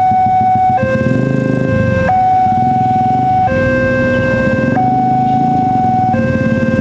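Railway level-crossing warning alarm sounding a steady two-tone electronic signal that alternates between a low and a high pitch about every 1.3 seconds, warning that a train is approaching. Motor vehicle engines run underneath.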